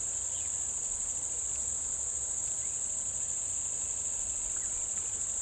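Steady high-pitched drone of insects, crickets or cicadas, calling without a break, with a few faint short chirps.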